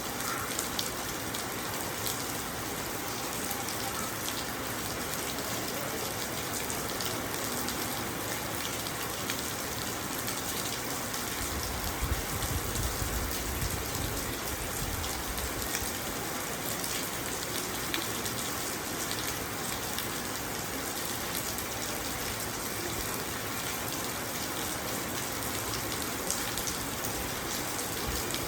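Steady rain pattering on car windows, heard from inside the car, with many small drop ticks. A deeper rumble swells for a few seconds about a third of the way in.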